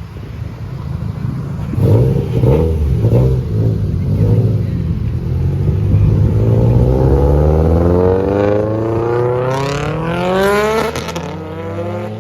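A car engine blipped a few times, then accelerating hard, its pitch climbing steadily for about five seconds before falling back near the end.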